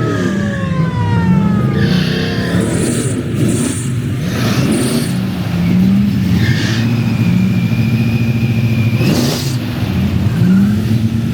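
Many classic and hot-rod car engines running and revving together, the start-your-engines moment of a car show. A siren winds down at the start. A long high steady tone sounds from about six and a half to nine seconds in, and a sharp crack comes near nine seconds.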